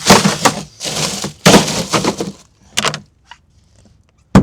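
Loud rough clattering and scraping in several bursts over about three seconds, then one sharp knock at the very end.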